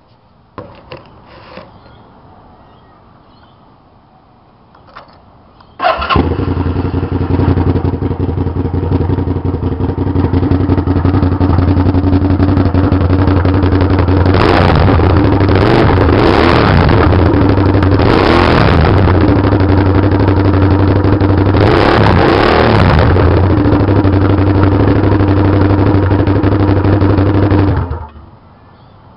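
Hyosung GT650 Comet's V-twin engine with no muffler fitted. After a few faint clicks it starts abruptly about six seconds in and runs loudly on the open exhaust. It is revved up and down several times in the middle and cuts off suddenly near the end.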